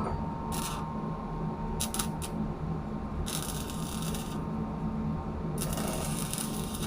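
Steady low machinery hum, with four short bursts of hiss or scraping about half a second, two, three and a half, and six seconds in, and a few sharp clicks around two seconds in.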